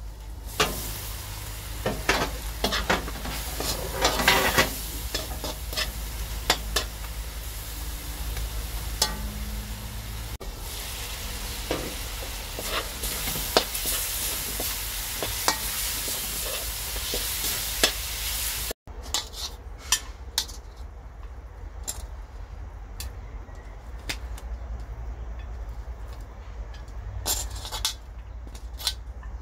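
Chicken wings sizzling in adobo sauce in a steel wok, with a spatula scraping and clicking against the pan as they are stirred while the sauce cooks down to oil. Later the sizzle fades and metal tongs click against the wok now and then as the wings are lifted out.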